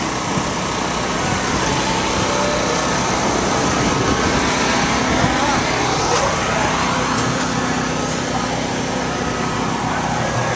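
Motor vehicle engines and street traffic running steadily, with voices in the background.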